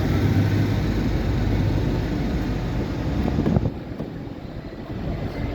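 Tractor diesel engine running loudly as it drives past, fading away sharply about three and a half seconds in, with quieter engine noise after.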